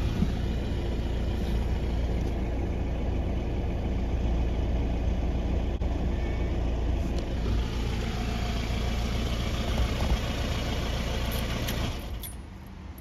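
Car engine idling steadily, a low even hum that drops away about twelve seconds in.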